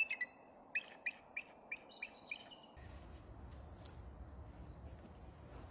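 Bald eagle calling: a run of high, thin chirping notes, about six in a row a little over a quarter second apart, that stops about two and a half seconds in.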